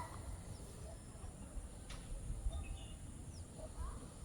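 Outdoor wetland ambience: a steady high insect drone with a few faint, short bird chirps, over low wind or handling rumble on the microphone.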